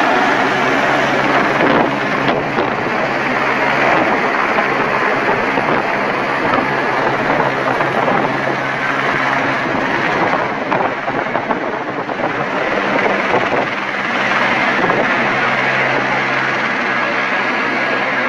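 Helicopter running close by: loud, steady rotor and turbine noise with a low hum under it, easing slightly about eleven to twelve seconds in.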